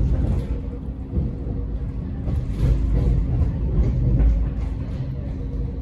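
X'Trapolis electric train running, heard from on board: a heavy low rumble with a steady hum and scattered short clicks.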